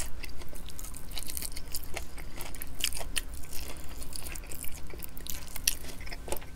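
Close-miked chewing of sauce-coated fried chicken: wet, sticky mouth sounds made up of many short clicks and smacks.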